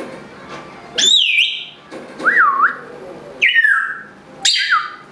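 African grey parrot whistling: four loud calls about a second apart, each starting sharply and sliding down and back up in pitch.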